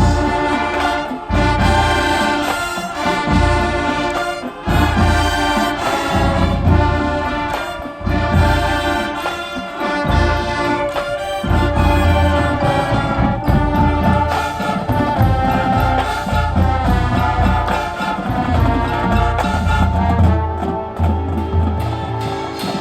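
Marching band playing at full volume: the brass section of trumpets and trombones carries sustained chords and melody over heavy bass hits.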